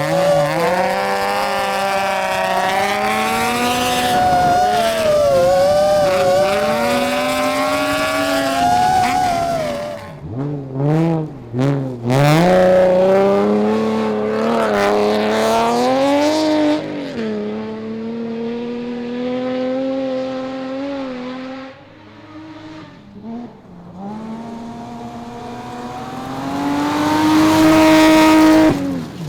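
Rally car engines at high revs, the pitch climbing and dropping again and again through gear changes and lifts, in a run of abrupt cuts between shots. Near the end one car grows steadily louder as it comes close, then the sound cuts off.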